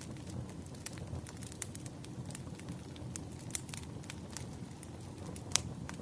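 Campfire burning with a steady low rumble and irregular sharp crackles and pops, one louder pop near the end.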